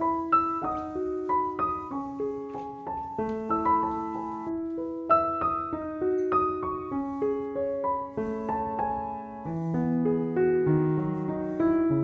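Background piano music: a slow, gentle melody of single held notes over a soft accompaniment, with deeper bass notes coming in near the end.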